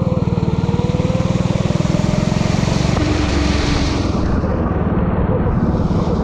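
Four-stroke Honda BizKart engine running hard at high revs. About three seconds in the engine note drops and turns uneven as the throttle is eased, then picks up again near the end, with a hiss over it.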